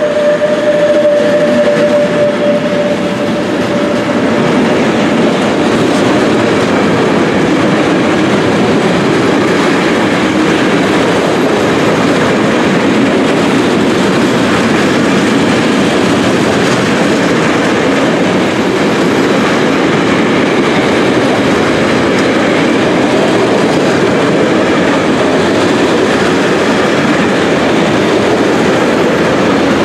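A long freight train of stake wagons loaded with steel pipes rolling past at close range: a steady, loud rumble and rattle of wagon wheels on the track. A high steady whine fades out over the first few seconds.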